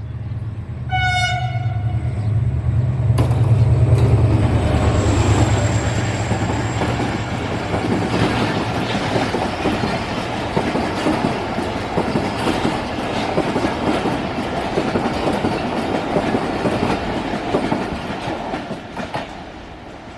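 A passenger train behind an HGMU-30 diesel-electric locomotive passing close by. It sounds a short horn blast about a second in, the locomotive's engine rumbles as it goes past, then a long run of coaches clatters over the rails and fades away near the end.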